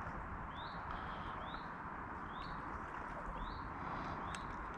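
A bird repeating a short rising chirp about once a second, over a steady background hiss.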